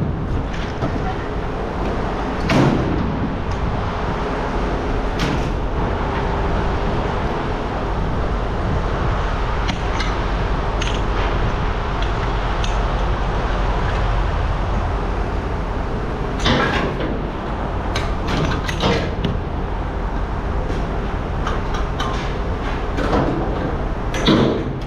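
Scrap metal pieces clanking as they are tossed into bins, about ten sharp knocks spread irregularly over a steady low engine rumble.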